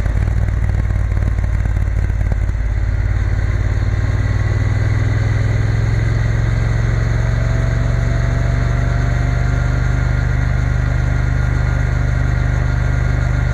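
Triumph Bonneville T120 parallel-twin engine running under way, heard from the bike with wind noise. The engine note is uneven at first and settles into a steady drone about five seconds in.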